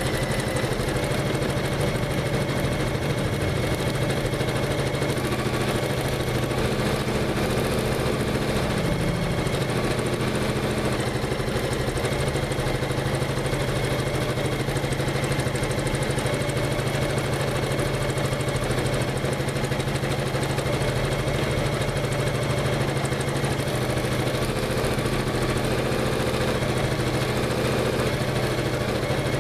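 Janome MC500E computerised embroidery machine running steadily, stitching at an even pace.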